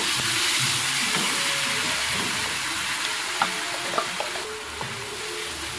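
Blended shallot, garlic, chili and ginger paste sizzling in melted margarine in a nonstick frying pan while a wooden spatula stirs it, with two light taps of the spatula on the pan a little over halfway through.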